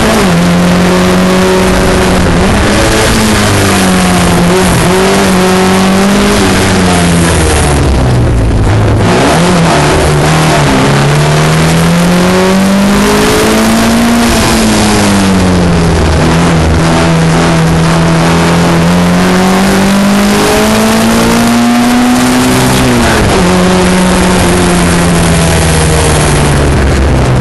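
Racing Austin-Healey Sprite's four-cylinder engine under hard acceleration, heard from inside the open cockpit. Its pitch climbs through each gear and drops sharply at the shifts, with a brief lift off the throttle about eight seconds in.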